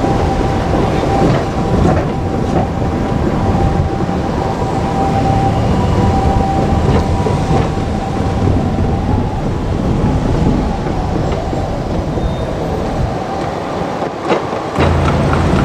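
JR Kyushu KiHa 200 diesel railcar running past, with a steady low rumble and wheels clacking over the rail joints. A steady high tone sounds over the first nine seconds or so, then stops.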